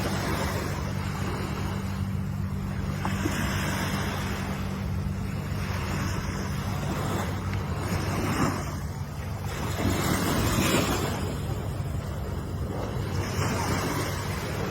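Ocean waves breaking and washing in, a rushing surge every two to three seconds, over a steady low hum.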